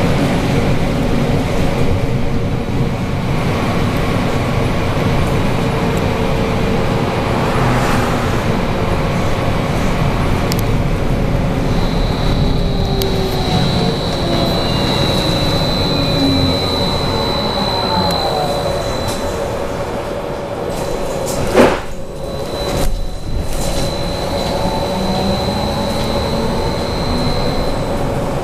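Belkommunmash BKM 43300D trolleybus heard from inside while moving: steady running and road noise with an electric traction whine gliding up and down in pitch, and a thin high tone from about twelve seconds in. A sharp knock sounds a little after twenty seconds, with a smaller one about a second later.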